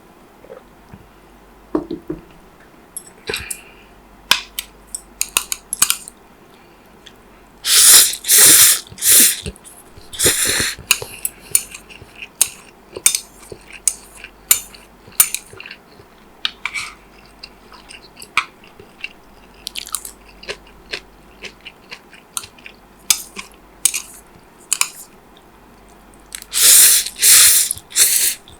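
Close-miked eating: a steady run of wet chewing and crisp bites, with clusters of loud, noisy bursts about a third of the way in and again near the end.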